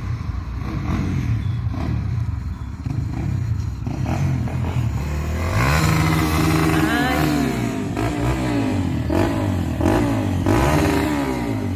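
Motorcycle engine idling, then revved hard over and over from about halfway through, its pitch climbing and falling with each twist of the throttle.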